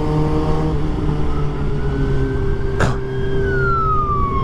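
Motorcycle engine running steadily at cruising speed, with road and wind noise. A thin whine rises slightly and then falls steadily in pitch from about three seconds in, and there is one sharp click just before it starts to fall.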